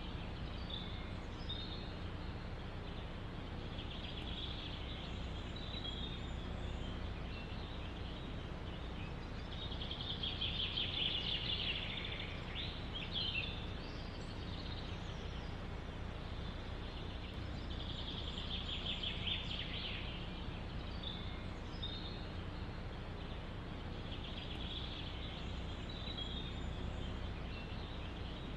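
A songbird singing short trilled phrases that recur every several seconds, with scattered chirps between them, over a steady background rush of forest wind.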